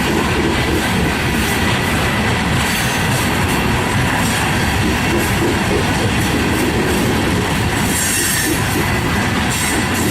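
Freight train cars rolling past, a steady loud rumble and clatter of steel wheels on the rails, with a brief high squeal of wheels about eight seconds in.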